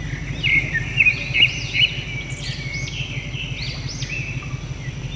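Birds chirping repeatedly in quick, looping calls over a steady low hum.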